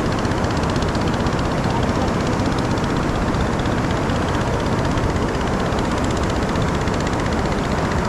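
Fast-flowing, storm-swollen river water rushing in a loud, steady roar with no breaks.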